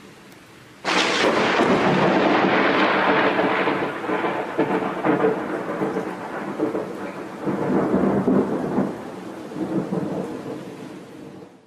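Close lightning strike: steady rain hiss, then about a second in a sudden loud thunderclap that rolls and rumbles in waves as it slowly fades. It cuts off suddenly at the end.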